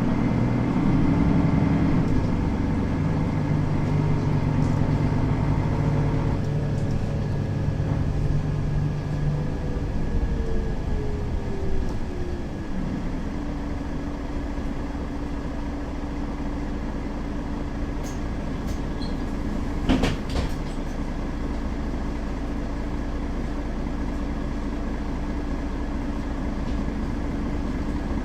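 Mercedes-Benz Citaro diesel city bus running, with its engine and drive whine falling in pitch as it slows. The engine then settles to a steady idle, and a sharp knock comes about twenty seconds in.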